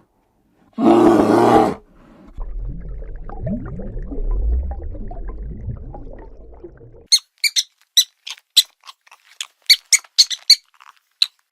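A big animal's loud roaring call about a second in, followed by several seconds of low, rumbling growls, then a quick run of short, high-pitched squeaks.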